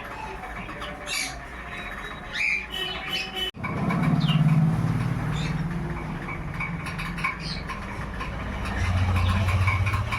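Baby yellow-sided conure giving short squawks and chirps. About a third of the way in, the sound drops out for a moment, and then a low rumble becomes the loudest sound under the calls.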